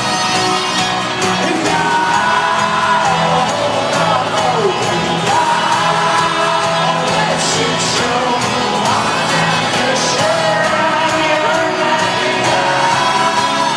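A folk-rock band playing live with sustained sung vocals, while the crowd whoops and cheers, recorded from within the audience.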